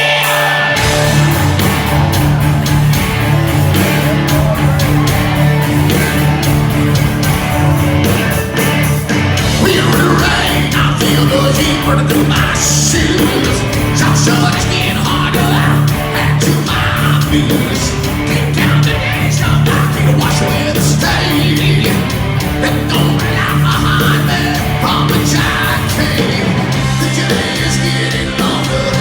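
A hard rock band playing loud and live: electric guitars, bass and drums, with a singer yelling out the vocal.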